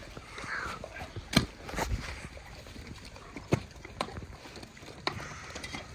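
Leonberger dogs chewing raw meaty bones and organ meat, with sharp cracks of bone crunching in their jaws about five times.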